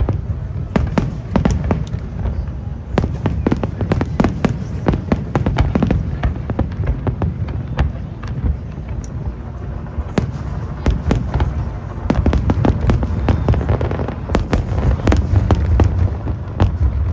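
Fireworks bursting in rapid succession: dense crackling and sharp bangs over a continuous deep booming rumble, heaviest in the last few seconds.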